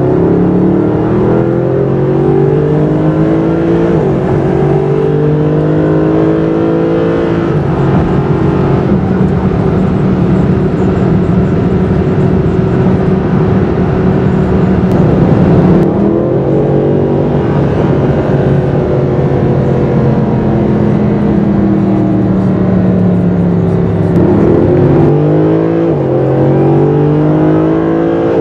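Mercedes SLS AMG's 6.2-litre V8 pulling hard through the gears. The engine note climbs and drops back at shifts about 4 and 7 seconds in, then holds fairly steady. It climbs and shifts again around 16 and 25 seconds.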